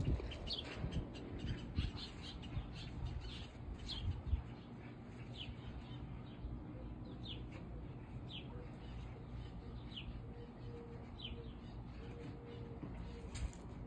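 A bird calling over and over, short falling chirps about once a second, over a low background hum.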